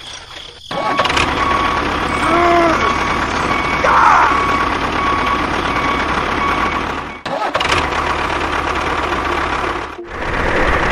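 An engine running steadily, with a couple of short rising-and-falling tones over it about two and a half and four seconds in. The sound breaks off briefly about seven and ten seconds in.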